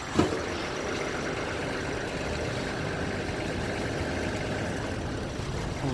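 Steady road and engine noise of a vehicle moving through city traffic, with a short knock just after the start.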